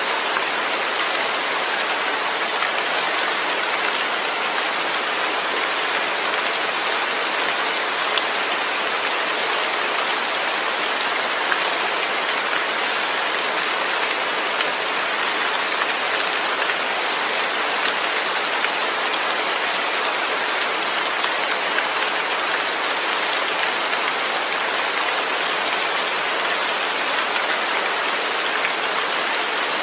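Steady rain falling without thunder: an even, unbroken hiss of rain.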